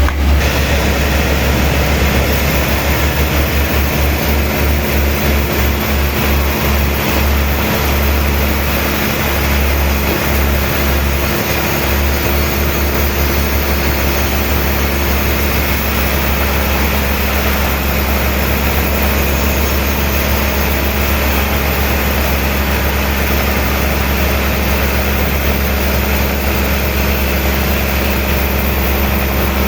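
A heavy machine or engine running steadily with a loud low hum, pulsing through roughly the first dozen seconds and then evening out.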